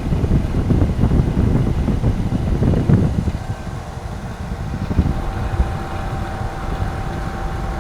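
Fan-driven wind buffeting a DJI Mic Mini lavalier inside a motorcycle helmet with the visor up, a heavy gusty rumble with the mic's low cut and clipping control both off. The rumble eases about three seconds in, and a steady hum comes in under it.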